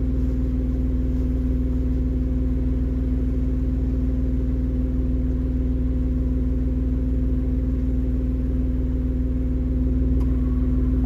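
Jeep engine running steadily at low speed, an even low hum with no revving, cutting off suddenly at the end.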